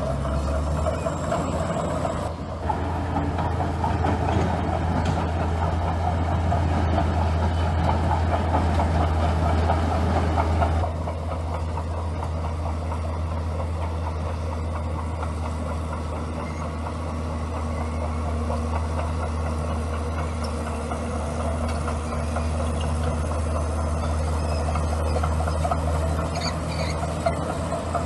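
Bulldozer's diesel engine running under steady load with a deep, constant hum. It works harder and louder from about three seconds in until about eleven seconds, then eases back.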